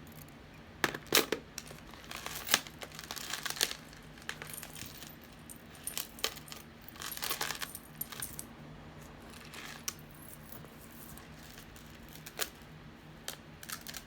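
Costume jewelry chains and beads clinking and rattling as necklaces are picked up and set down, in scattered clusters of sharp clicks.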